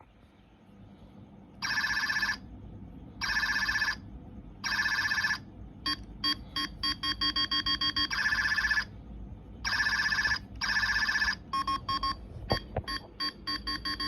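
Hi Tech Buzz Lightyear talking figure's built-in speaker playing electronic beeping sound effects: three long beeps about a second and a half apart, then a rapid trill of short beeps, more long beeps, and another fast run of beeps near the end.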